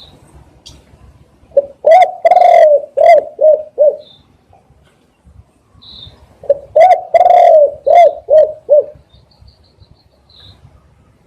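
Spotted dove cooing: two loud phrases a few seconds apart, each a run of about six low coos with a longer drawn-out note near the start.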